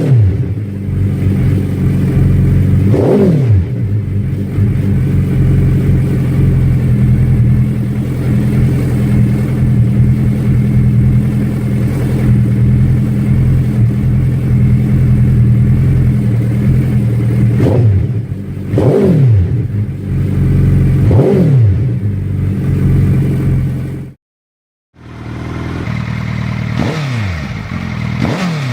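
Suzuki GSX1300R Hayabusa inline-four with an aftermarket full exhaust, idling, with quick throttle blips that rise and fall sharply a few seconds apart. Near the end the sound cuts out for under a second, then a different exhaust is heard idling and revving.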